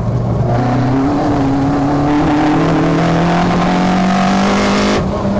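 Citroën Saxo VTS 1.6 16-valve four-cylinder on individual throttle bodies, accelerating hard. Its revs climb steadily for about four seconds, then drop sharply near the end. Heard from inside the stripped-out cabin.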